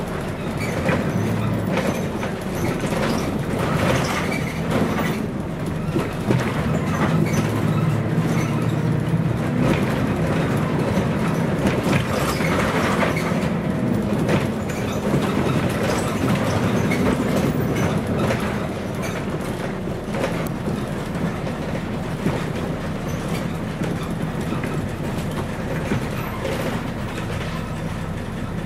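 Scania CN113CLL city bus under way, its Scania DSC 11.71 diesel running through a Voith D863 automatic gearbox, with body rattles throughout. The engine grows louder from about six seconds in and eases off around twenty seconds.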